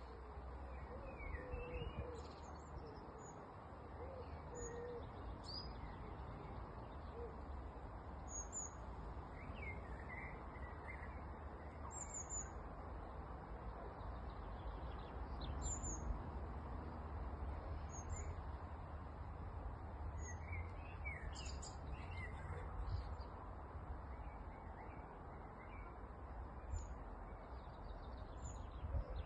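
Birds calling and singing on and off, with short high chirps scattered throughout and a few low, even call notes in the first five seconds, over a steady low traffic rumble.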